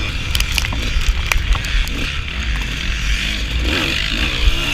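Suzuki RM125 two-stroke dirt bike engine running under the rider, mixed with heavy wind rumble on the helmet camera, with a few sharp clicks in the first second or so and the engine pitch wavering up and down near the end.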